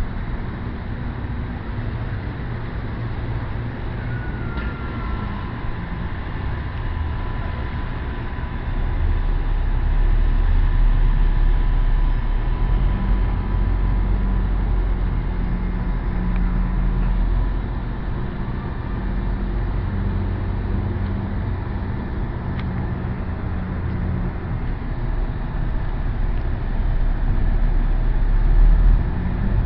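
Steady low rumble of road traffic, swelling louder as vehicles pass about nine seconds in and again near the end.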